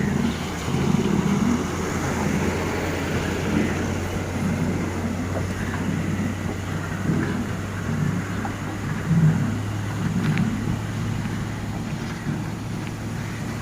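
A vehicle running on the road: a steady low engine drone with uneven rumbling and road noise.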